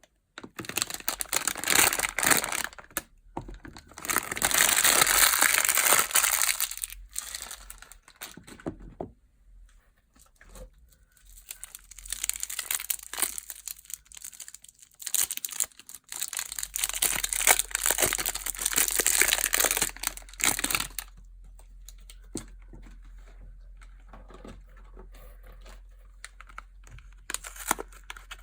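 Soap packaging being unwrapped: wrappers crinkling and tearing in bursts with short pauses, quieter for a few seconds near the end.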